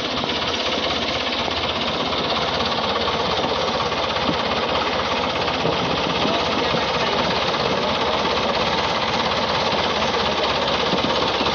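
New Holland 640 tractor's diesel engine running steadily under load, with a rapid, even knocking beat.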